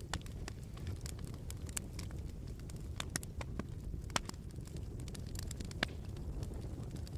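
Wood fire crackling in a fireplace: irregular sharp pops and snaps over a low steady rumble, with a few louder pops about three, four and six seconds in.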